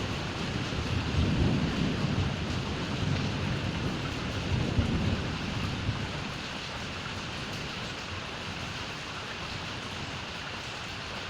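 Thunder rumbling over steady rain. The rumble is strongest in the first half and fades out about six seconds in, leaving the even hiss of rain.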